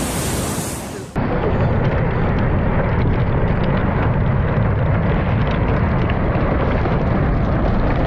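Ocean surf and wind noise on the microphone, cut off suddenly about a second in. A loud, steady, low rumble with faint crackling follows.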